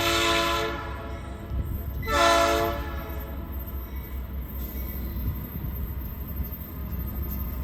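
Locomotive horn sounding two short blasts, the first right at the start and the second about two seconds in, each about a second long, over the steady low rumble of the train.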